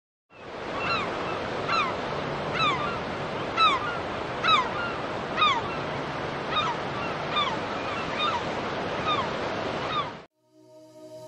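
A bird calling over and over, a short falling call about once a second, over a steady rush of outdoor background noise. The recording starts about half a second in and cuts off suddenly near the end.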